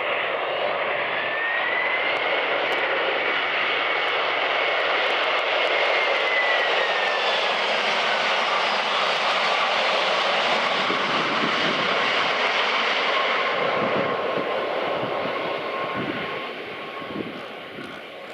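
Boeing 767-300 jet airliner's engines on landing, a loud roar with a fan whine that falls steadily in pitch as the aircraft passes by, then fades in the last few seconds.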